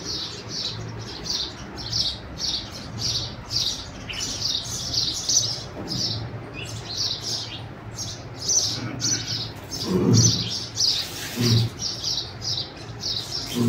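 A small bird chirping over and over, about three short high chirps a second, over a low steady hum. Two short, louder low sounds stand out about ten and eleven and a half seconds in.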